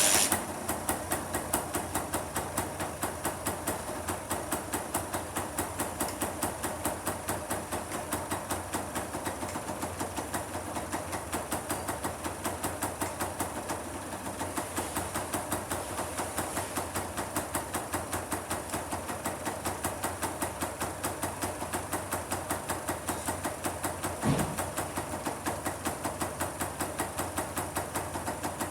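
Kawasaki KSR-II's two-stroke single-cylinder engine idling with a steady, fast pulsing beat, given one brief blip of the throttle late on.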